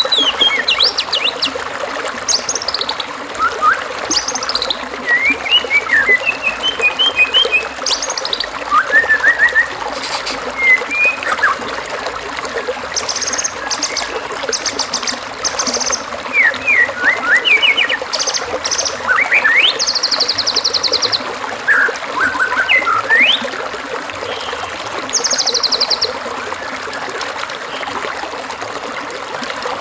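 Varied songbird song over a steady rush of running water: whistled chirps, quick rising and falling notes, and now and then a rapid buzzy high trill. It is a masteran tutor recording of birdsong for training white-rumped shamas.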